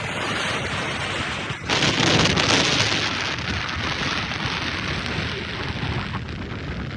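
Wind rushing over the microphone of a moving motorcycle, a steady noisy rush that swells sharply about a second and a half in.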